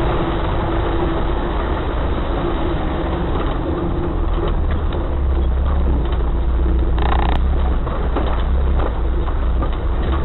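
Off-road 4x4's engine running steadily as it drives, a low rumble with scattered knocks and rattles over rough ground. A brief higher-pitched sound comes about seven seconds in and ends with a click.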